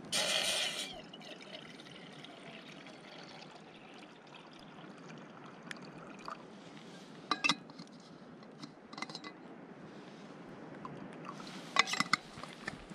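Water being poured into a container in a short loud burst at the start, then a steady outdoor hiss with a few short sharp clinks about halfway through and near the end.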